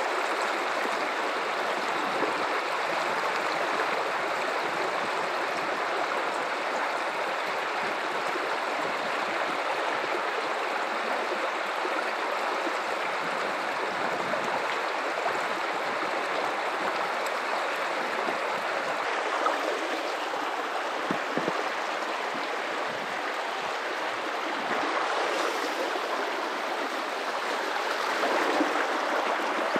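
River water running over rocks in a steady rushing flow with small splashes and gurgles.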